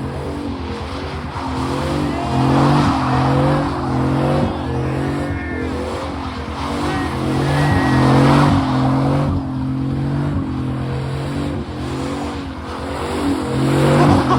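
Pickup truck engine held at high revs, its note dipping and climbing again about once a second, while the tyres spin and slide on the pavement.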